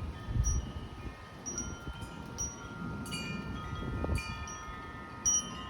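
Wind chimes ringing in storm wind, struck again and again at several overlapping pitches that each ring on for a second or more, over a low rumble of wind.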